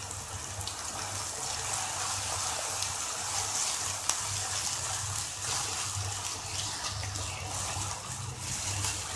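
Grated onion and ginger–green chilli paste sizzling steadily in hot oil in a kadhai while a wooden spatula stirs it, frying for the base of a curry gravy.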